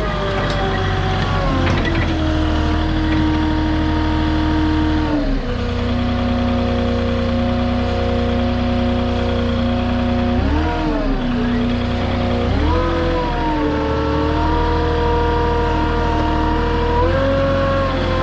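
Forklift engine running under hydraulic load as the forks are extended, its pitch stepping down about five seconds in, dipping and coming back up around ten seconds, and rising again shortly after.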